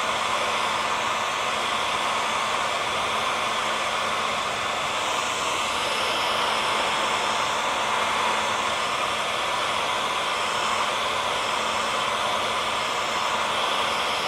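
Hair dryer running steadily on one setting: an even rush of blown air with a faint steady hum underneath, played as white noise to lull a baby to sleep.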